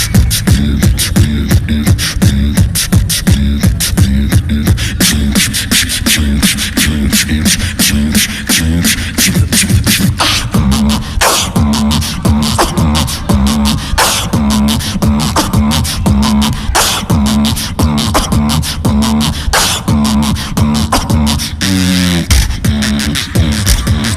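Beatboxing: a performer's mouth-made kick and snare hits and fast clicks over a pulsing low bass line, in a dense steady rhythm.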